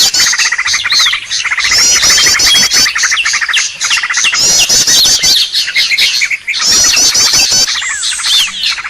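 Dense chorus of small songbirds played as a bird-luring (pikat) call: a continuous buzzy chirping trill overlaid with sharp chirps, and a high rapid twittering phrase that repeats about every two and a half seconds.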